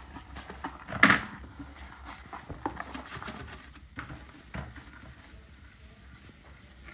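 Household handling noises: a sharp knock about a second in, then scattered light taps and clicks over a low steady hum.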